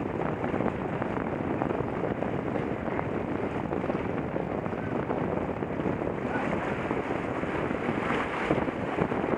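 Steady wind buffeting an action camera's microphone, with water rushing and splashing along a moving boat's hull.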